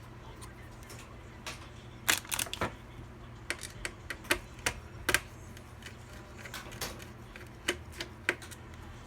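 Irregular sharp clicks and taps of hard plastic and metal computer parts being handled during a PC build, in a quick cluster partway through and more scattered after, over a steady low hum.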